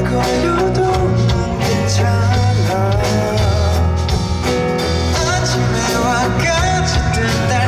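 A song played live through a busking sound system: a male voice singing over a band backing with a strong bass line and guitar.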